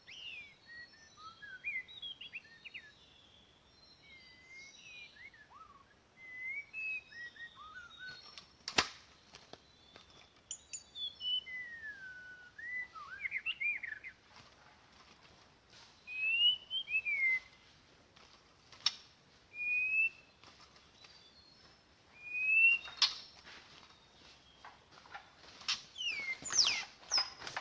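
White-rumped shama singing a run of varied short whistled phrases and chirps, some sweeping up or down in pitch. A few sharp clicks or snaps cut in, once about a third of the way in and several times near the end.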